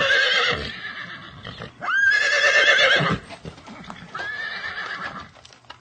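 Horse whinnying three times: a call trailing off in the first second, a louder one that rises and quavers about two seconds in, and a fainter one about four seconds in.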